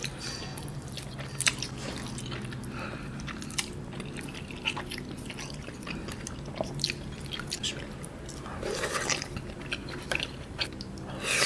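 Close-up chewing and wet mouth sounds of a person eating tteokbokki, chewy rice cakes in a spicy sauce with melted cheese. Short smacks and clicks come throughout.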